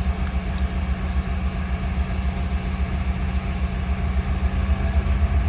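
Diesel locomotive of a stopped train idling: a steady low engine rumble with a constant hum above it.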